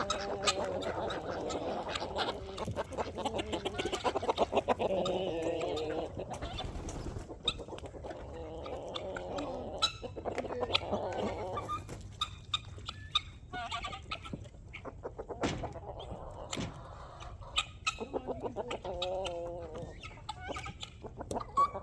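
A flock of chickens clucking on and off, with many sharp little clicks and taps mixed in.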